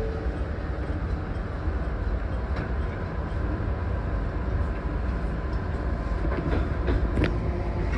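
Shinano Railway 115 series electric train running, heard from inside the driver's cab: a steady low rumble of wheels on rail, with a few sharp clicks near the end as an oncoming train passes on the next track.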